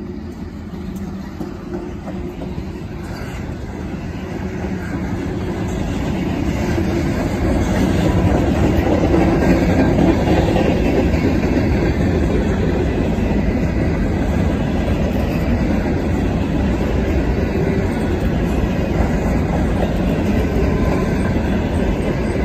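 Freight train passing close by. A six-axle diesel locomotive goes by at the start, then a string of covered hoppers and coil cars rolls past. The rumble of wheels on rail grows louder over the first eight seconds or so and then holds steady.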